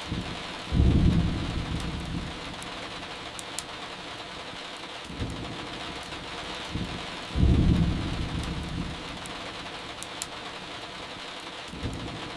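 Steady rain with two low rolls of thunder, one about a second in and one about seven seconds in, each dying away over a couple of seconds. Small crackling pops from a wood fire are scattered through it.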